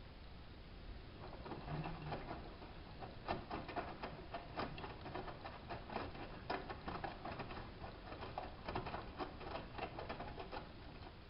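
Hanseatic HWM814A3D washing machine drum turning in the wash, with laundry tumbling and water splashing in a rapid, irregular patter. The drum starts turning about a second in and stops shortly before the end.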